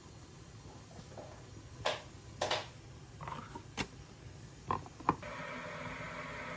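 A handful of short knocks and clicks, then a steady mechanical hum starts abruptly a little after five seconds in.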